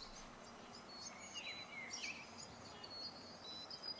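Birds chirping and whistling over faint outdoor background noise: many short, high chirps, with a few lower, slurred calls between about one and two seconds in.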